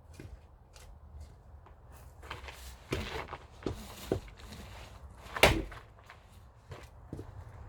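Wood being split with an axe: a few lighter wooden knocks, then one loud axe blow into a log about five and a half seconds in.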